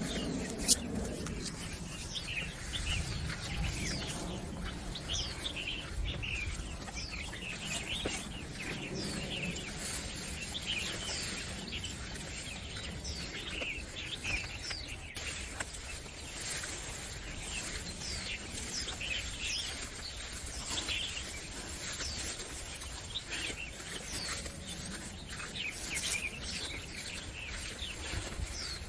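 Small birds chirping throughout in short, quick downward chirps, several at a time, over a low steady rumble. A single sharp click comes just under a second in.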